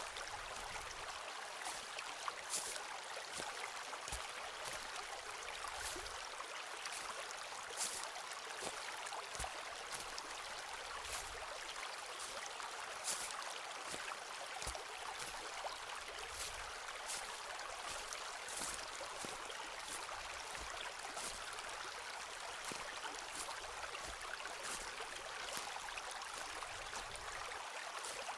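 Steady rushing of a forest stream, with footsteps crunching and thudding on the forest floor at a slow walking pace, about one every one to two seconds, and small irregular clicks and snaps.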